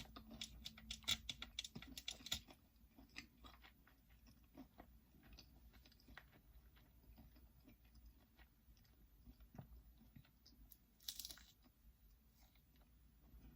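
A person chewing and crunching food close to the microphone, loudest for the first couple of seconds and then quieter, with a brief soft rustle or hiss about eleven seconds in.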